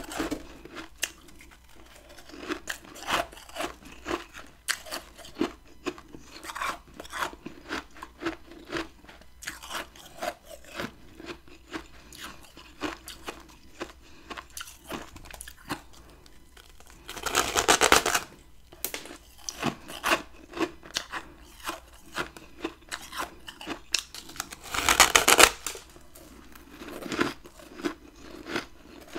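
A person biting and chewing chunks of freezer frost: a run of short crunches, with two louder, longer crunching bites, one just past halfway and one near the end.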